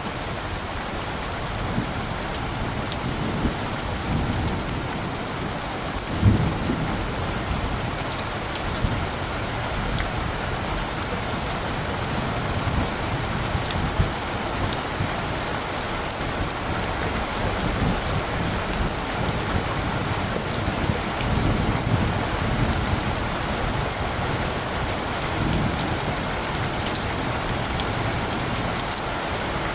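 Steady rain falling, with low rumbles of light thunder that swell and fade, the strongest coming suddenly about six seconds in.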